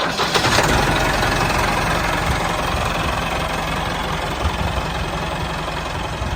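An engine running steadily with a rough low pulsing.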